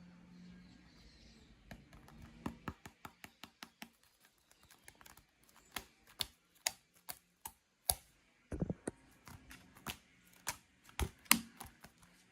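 Fingers tapping and clicking on the surface of a World Cup football in quick, irregular taps. They start about two seconds in, come several a second, and a few sharper ones fall near the end.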